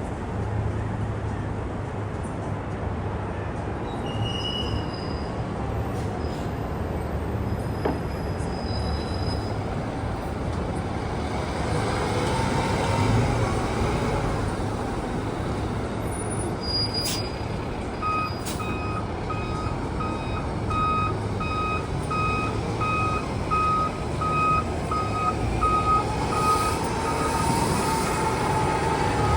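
A heavy vehicle's engine rumbles steadily while a siren wails faintly, rising and falling twice. About two-thirds of the way in, a reversing alarm starts beeping steadily, about two beeps a second.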